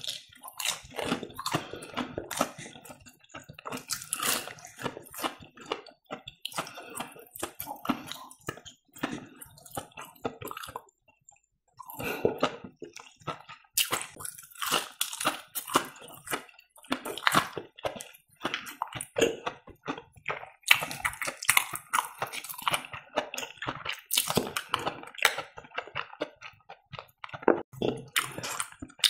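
Close-miked chewing and biting of breaded fried cheese: a dense run of short, irregular mouth sounds, with a brief pause about eleven seconds in.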